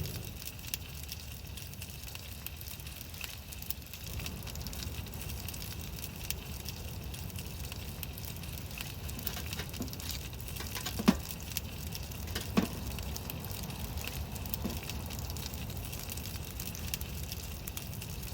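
Wood fire crackling in a titanium wood stove, with scattered small ticks and two sharp pops about eleven and twelve and a half seconds in, over a steady low rumble.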